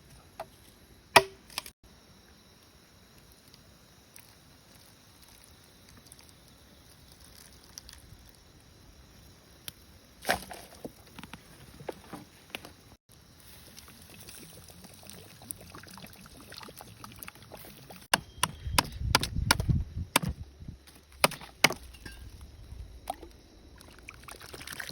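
Scattered sharp knocks and chops on wood: two close together about a second in, one about ten seconds in, then a quick cluster of knocks with a low rumble in the last third.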